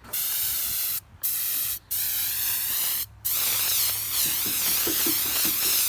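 Compressed air hissing from an air-compressor blow gun, released in bursts: three short blasts in the first three seconds, then one long continuous blast.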